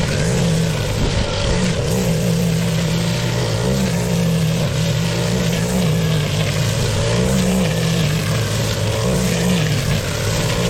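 Petrol lawn mower engine running steadily under load, its pitch dipping and recovering a little every second or two as it cuts through thick, wet grass.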